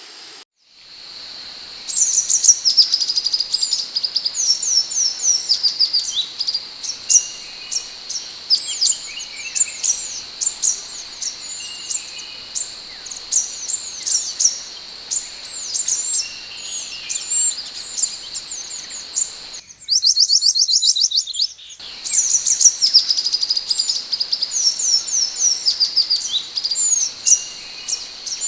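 Scarlet minivet (sepah hutan) calling: rapid series of short, high sweeping whistles over a steady high-pitched background hum. There is a brief gap soon after the start, and a couple of seconds of faster, even ticking notes midway.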